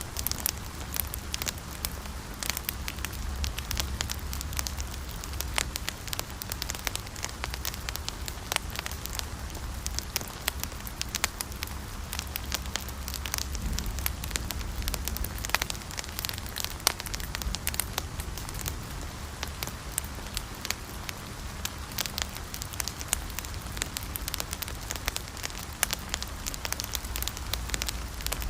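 Wood fire burning and crackling steadily, with frequent sharp pops and snaps over a soft hiss and a low rumble of flame.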